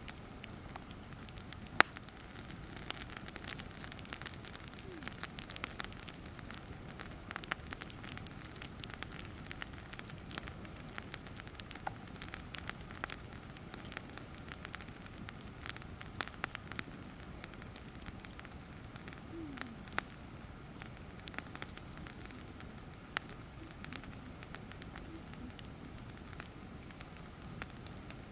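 Campfire crackling, with irregular sharp pops and snaps scattered throughout, the loudest about two seconds in.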